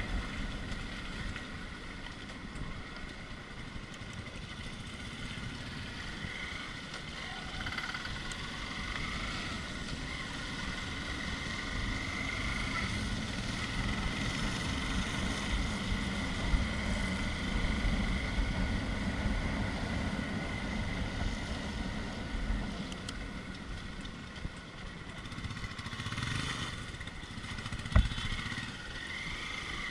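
Off-road motorcycle engine running as it rides over a rough trail, with a sharp knock near the end.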